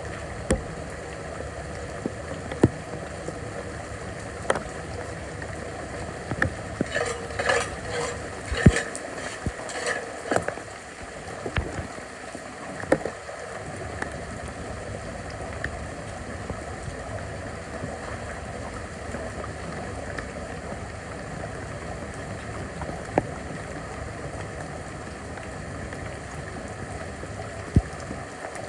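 Floodwater running steadily, with scattered sharp knocks and a burst of clattering about 7 to 10 seconds in.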